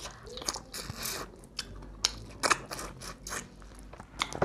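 Close-up chewing and biting of crispy fried chicken, with irregular sharp crunches every second or so.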